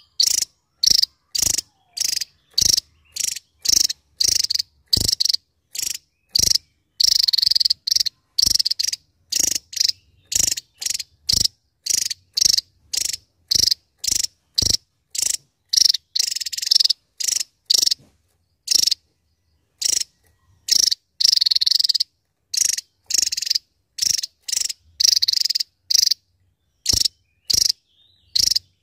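Javan tesia calling in a fast run of short, sharp, high-pitched notes, about two a second, broken by a few short pauses.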